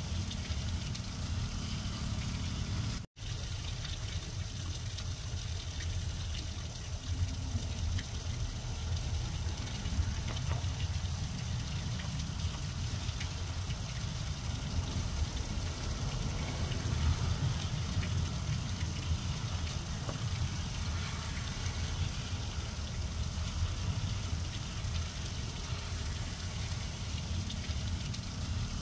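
Steady rain falling on grass and bare soil, an even hiss over a constant low rumble. The sound cuts out for a split second about three seconds in.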